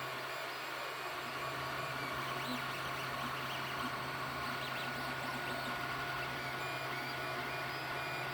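3D printer running, a steady fan and motor hum with faint whines from the stepper motors that shift in pitch as the print head moves.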